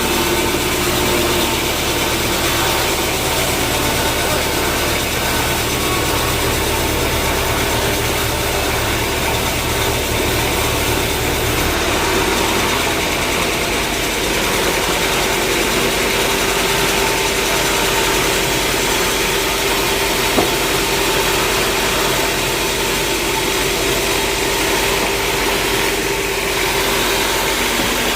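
Sawmill machinery running steadily: a motor's hum with a steady whine over a bed of noise. About halfway through the low hum drops away while a higher tone grows stronger, and there is a single short tick later on.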